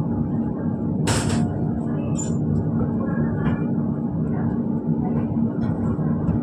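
Passenger train running, heard from inside the coach as it passes along a station platform: a steady low rumble and hum, with a short hiss about a second in.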